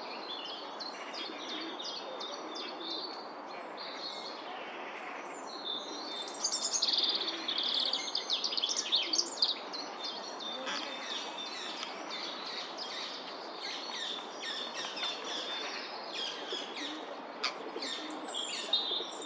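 Small birds chirping and twittering in many short, quick calls, sparse at first and turning into a busy run from about six seconds in, over steady background noise.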